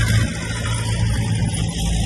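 Heavy diesel engine of earthmoving equipment running steadily under load.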